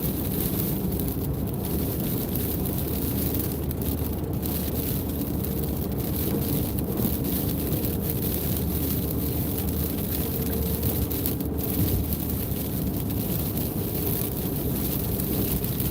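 Steady road and engine noise heard from inside a car's cabin while driving, an even rumble with a faint steady hum.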